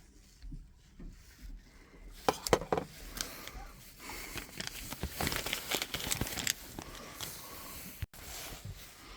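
Hands working on a combi boiler's internal parts: irregular clicks, knocks and scraping of plastic and metal fittings being handled and prised loose, with busier bursts about two seconds in and again in the middle.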